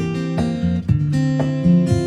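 Background music: acoustic guitar strumming chords at a steady pace, about two strums a second.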